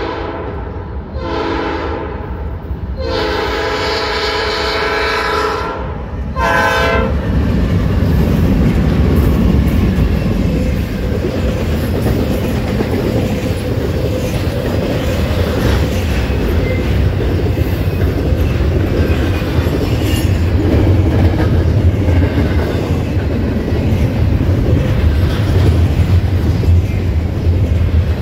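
A freight locomotive's air horn sounds several blasts, the last a short one that ends about seven seconds in. The train then passes close by: the locomotives, then a double-stack intermodal train of well cars rumbling, with steady wheel clatter over the rails.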